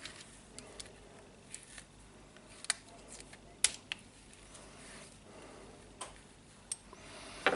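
Scattered light clicks and clinks of small motor parts being handled as a jigsaw motor is taken apart, with a louder knock near the end.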